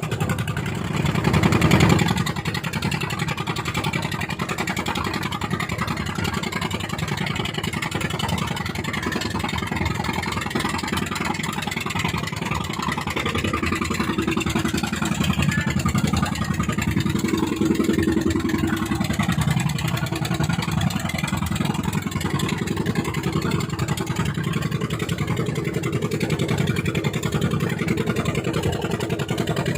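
A fishing boat's engine running hard at full throttle. It surges louder about two seconds in, and the engine note swells and eases a few times later on.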